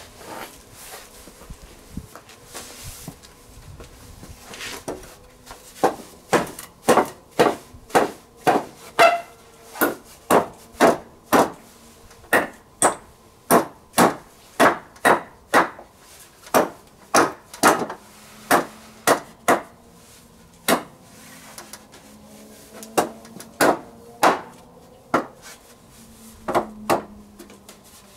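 A hammer striking wood repeatedly, about two blows a second, in a long run that pauses briefly and then starts again near the end.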